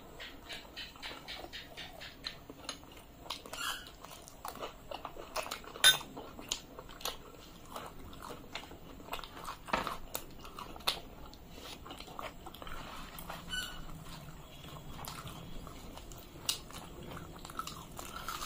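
Close-miked chewing of luchi, the puffed fried flatbread, eaten by hand, heard as many short mouth clicks with a sharper click about six seconds in.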